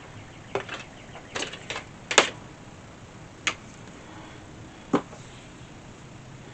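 Irregular clicks and light knocks from handling the parts and wiring of a diesel air heater kit, about seven in all, the loudest about two seconds in.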